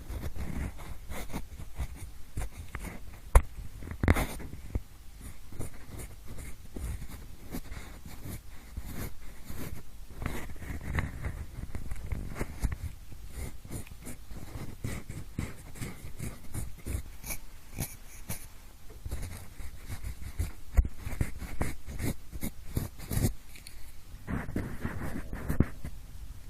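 Pencil scratching and rubbing right against the microphone in quick, irregular strokes, made to sound like ear cleaning, with a few sharper taps.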